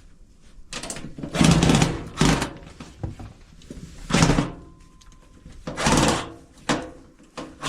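A cordless screwdriver running in several short bursts, unscrewing the screws of a washing machine's back cover, with a longer run about a second and a half in.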